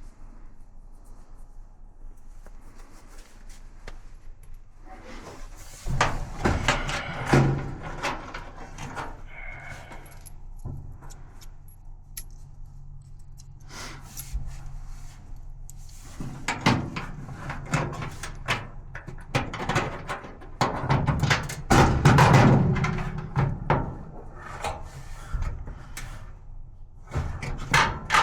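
Intermittent clinks, knocks and rattles of hard objects being handled, in several busy spells, over a faint steady low hum.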